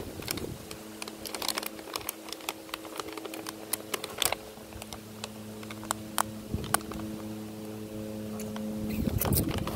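Close-up eating sounds: irregular sharp clicks of chewing and mouth noises. Underneath runs a steady low hum.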